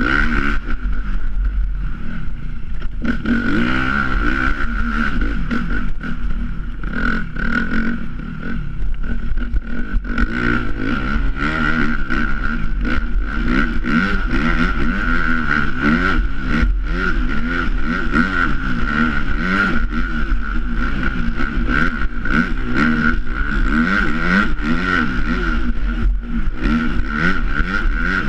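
Dirt bike engine being ridden through snow, its revs rising and falling constantly as the throttle is worked, with a steady high whine running alongside.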